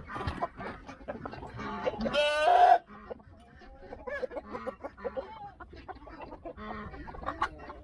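Chickens clucking, many short calls overlapping, with one loud, sharply pitched call about two seconds in.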